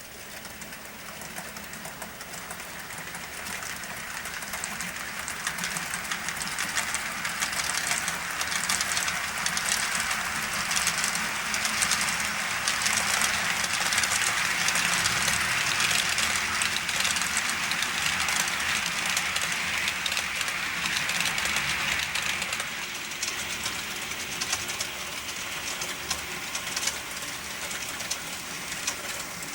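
Model train without an onboard sound system running along the track: a steady rolling rush of wheels on rail with fine rapid clicking. It grows louder over the first dozen seconds, is loudest in the middle, then eases off as the train passes.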